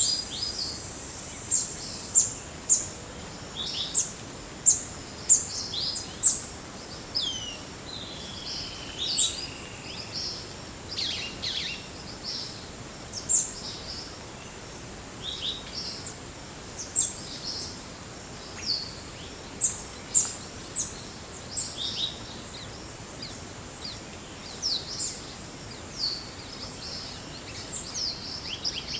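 Forest birds calling: many short, high chirps and whistles, some sliding down in pitch, over a steady thin high tone. A higher hiss-like buzz joins for several seconds in the middle.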